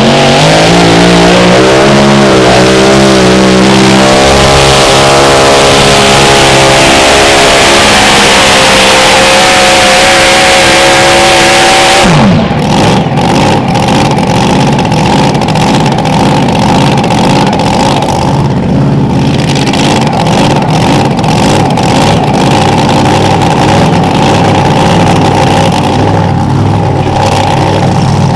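Mini rod pulling tractor's engines at full throttle under load, rising in pitch over about ten seconds. About twelve seconds in the throttle is cut and the engines fall to a rough, uneven lope with sharp crackles for the rest.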